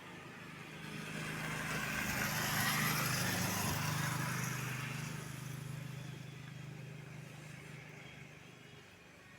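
Airbus A320-251N airliner with CFM LEAP-1A turbofan engines flying past: the jet noise swells to its loudest about three seconds in, then slowly fades away.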